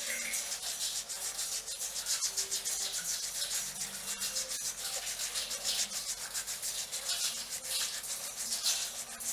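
Fingernails scratching through hair on the scalp in quick repeated strokes, a dry rasping scrape.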